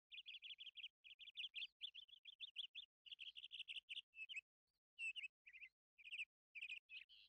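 A small bird chirping faintly in quick runs of short, high notes, several a second, broken by brief pauses.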